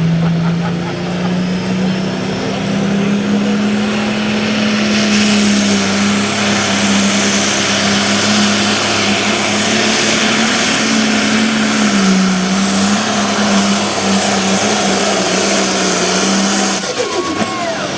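Diesel pulling tractor at full throttle dragging a weight-transfer sled, the engine pitch climbing over the first couple of seconds and then holding high, with a brief dip about twelve seconds in. The engine drops off shortly before the end as the pull finishes.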